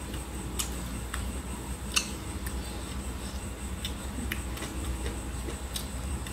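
A person chewing and eating with the fingers: irregular soft clicks and smacks of the mouth and of fingers in the rice, over a steady low hum.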